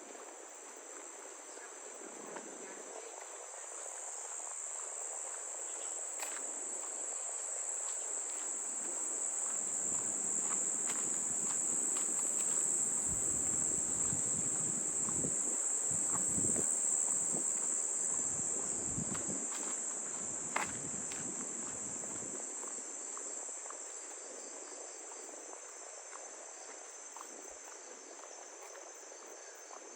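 Tropical insects calling in a continuous high-pitched chorus, swelling louder through the middle and easing off toward the end, with a few faint clicks.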